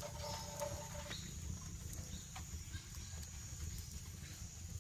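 Faint outdoor ambience: a steady high insect trill under a low rumble, with a short two-pitch call in the first second and scattered light clicks.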